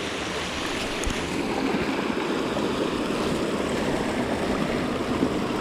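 A small mountain creek running: a steady rush of water, with one faint click about a second in.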